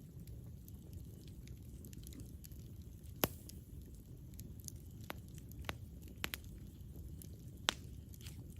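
Campfire burning: wood crackling in scattered small ticks over a low steady rumble. A few sharper pops stand out, the loudest about three seconds in and another near the end.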